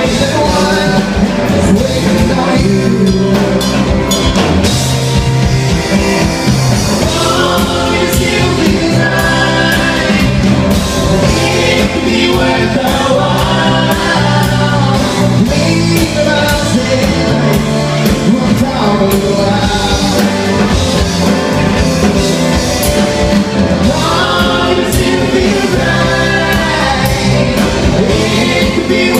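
Rock band playing live, with singing over the instruments and steady drum hits.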